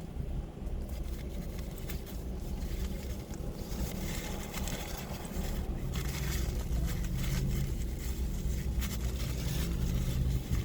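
A steady low mechanical hum, like an engine idling, with small clicks and rustles over it.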